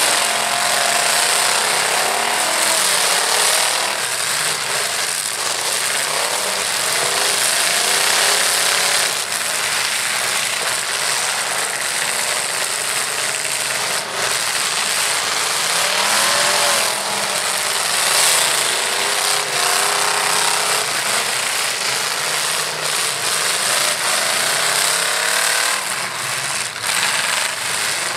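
Several demolition-derby trucks' engines revving hard at once, a loud, dense racket that swings up and down in pitch, with a few sharp bangs of trucks colliding.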